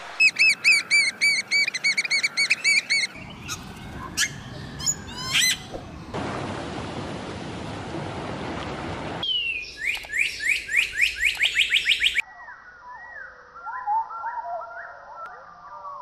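Different birds calling in turn, with abrupt changes between them. First comes a fast run of repeated high chirps, then scattered chirps, then a few seconds of steady rushing noise. A quick rattling series of falling notes follows, and near the end a lower, warbling song.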